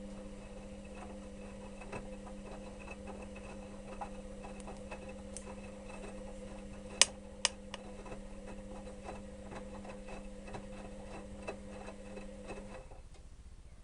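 Electrolux EWS 1045 washing machine mid-wash: its motor turns the drum with a steady hum while the load gives off many small clicks and knocks, two of them sharper about halfway through. The hum stops about a second before the end as the drum comes to rest.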